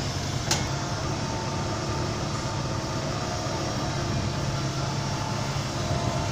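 Heavy diesel engine running steadily, with a single sharp click about half a second in.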